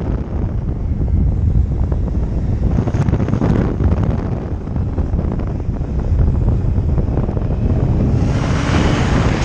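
Wind buffeting the microphone over a running motorcycle engine while riding, with a louder rush of wind near the end.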